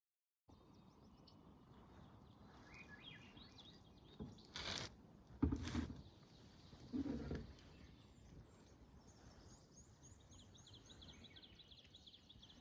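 Songbirds chirping over a faint outdoor hiss, with a quick run of repeated chirps in the second half. A few dull thuds cut across it around the middle, the loudest about halfway through.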